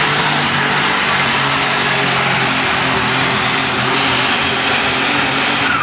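An 8,300 lb super stock pulling tractor's engine running flat out under load during a pull, loud and steady, easing off right at the end as the run finishes.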